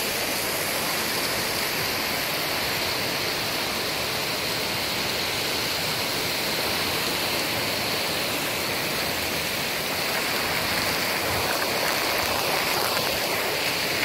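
Torrential rain pouring down in high wind, a steady loud hiss that grows a little louder about ten seconds in.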